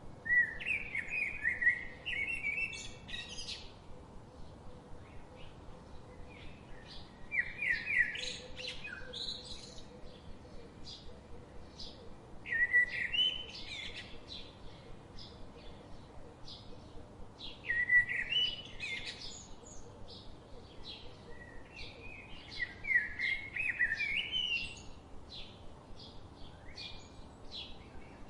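Birds chirping: one songbird sings short warbling phrases about every five seconds, with many faint quick chirps from other birds in between.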